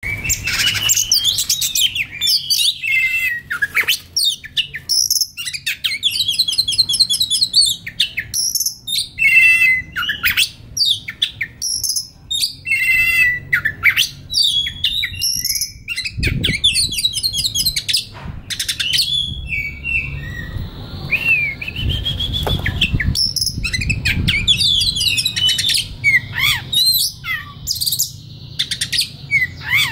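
Oriental magpie-robin (kacer) singing a continuous, varied song of clear whistled phrases and rapid trilled runs, some notes sliding up and down. A low background rumble comes in around the middle.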